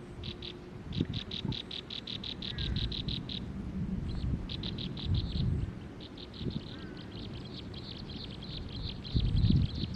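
Wild forest calls: a high, rapid pulsing trill of about ten pulses a second, repeated in runs of one to three seconds, with a couple of faint short chirps. Low rumbling thumps come in between, strongest near the end.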